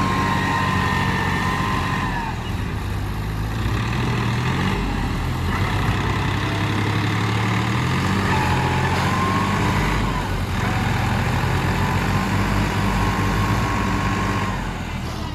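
Tractor diesel engines running steadily under load, their pitch shifting slightly as they work. A thin, high, wavering tone sounds over them at times.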